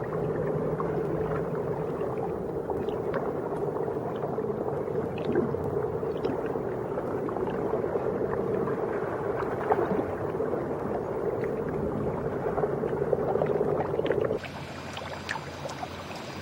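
Underwater ambience: a steady low rushing hum with scattered faint clicks. It drops to a quieter background about fourteen seconds in.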